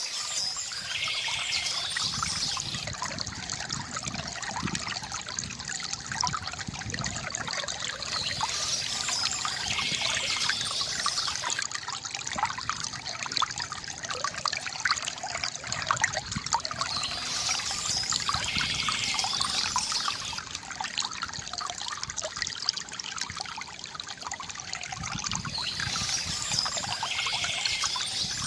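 Water from a bamboo fountain trickling and splashing steadily into a basin, with a brighter patch in the sound recurring about every nine seconds.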